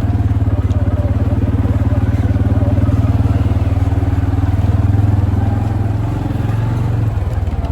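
Quad bike engine running steadily while riding, with a fast, even firing pulse; the engine note eases off briefly near the end.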